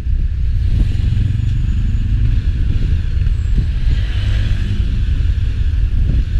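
A motor vehicle passing on the street, its engine note and tyre hiss swelling about four seconds in, over a steady low rumble of wind on the microphone.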